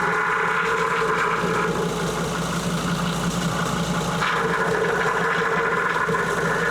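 Mercedes Sprinter five-cylinder diesel engine idling while the steering is worked from lock to lock during a power steering fluid flush. A higher whine over the steady engine hum fades out about two seconds in and returns about four seconds in, as the steering load comes and goes.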